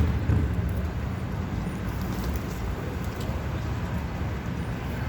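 Steady low rumble of outdoor city noise, with a couple of brief knocks at the very start.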